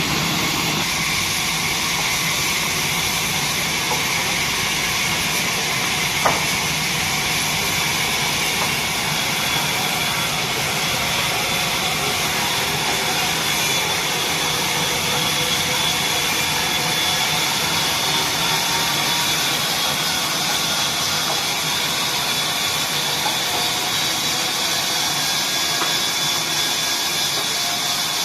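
Horizontal wood band saw running steadily, with a few faint steady whining tones over its noise. There is a single sharp click about six seconds in.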